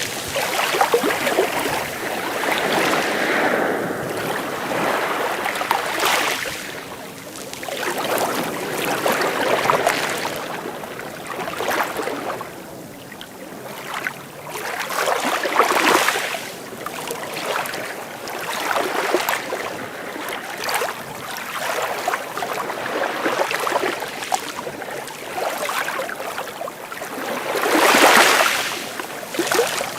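Sea waves breaking and washing in, a rushing noise that surges and falls back every few seconds, with the strongest surge a couple of seconds before the end.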